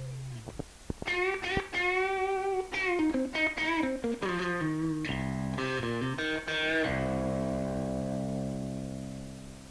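Background music: a guitar solo with wavering, bent notes and a descending run, ending on a held chord that rings and fades out.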